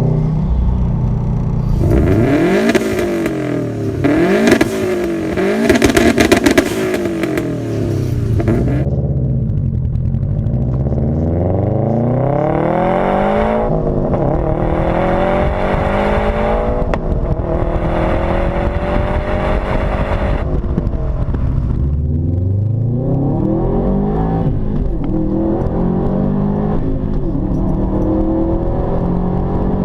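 2015 Subaru WRX STI's turbocharged 2.5-litre flat-four through an aftermarket exhaust: revved in quick blips with sharp crackles for several seconds, then pulling under acceleration, its pitch climbing steadily and dropping at gear shifts twice before climbing again.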